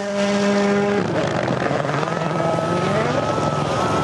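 Rally car engine at high revs, holding a steady note for about a second, then dropping and climbing again as the car accelerates.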